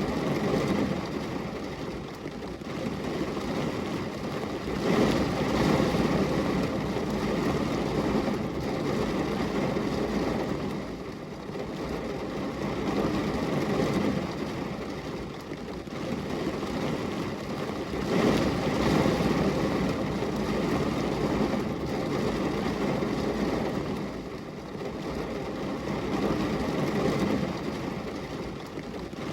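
Rain on window glass: a steady rushing noise that swells and eases every several seconds.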